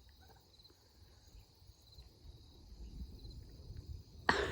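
Faint insects chirping in a steady high band, with a low rumble of wind or handling on the microphone. Near the end, a short loud breathy burst.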